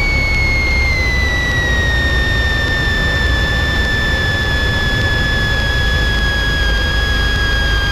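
Cessna 172 cabin noise: a steady low engine drone with a high whine that slowly falls in pitch.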